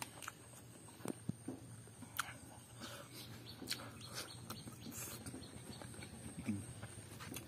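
Close-up eating sounds of a man chewing a mouthful of pork and rice: wet chewing and lip smacks, with sharp clicks scattered irregularly through.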